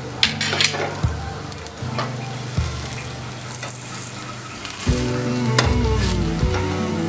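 Gola ruti batter sizzling steadily in a non-stick frying pan, with a spatula scraping and tapping against the pan several times, most in the first second. Background music grows louder about five seconds in.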